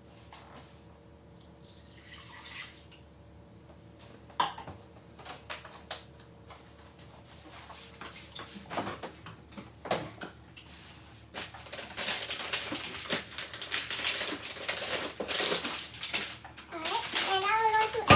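Oat milk poured out into a measuring cup, a steady liquid splashing that builds from about eight seconds in, after a few clicks and knocks of the carton and cup being handled. A voice comes in near the end.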